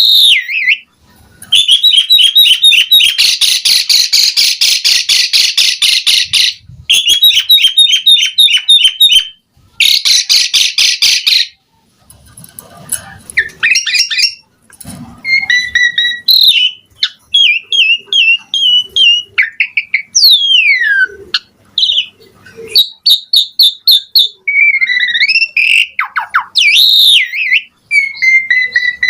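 Asian pied starling (jalak suren) singing a long, varied song: fast rapid-fire trills through the first half, then a string of varied whistles and rising and falling notes.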